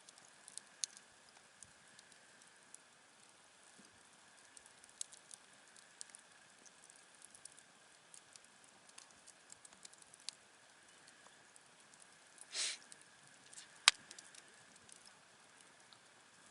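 Wood campfire crackling, with scattered small snaps and ticks. About three quarters through comes a brief hiss, then a single sharp, loud pop.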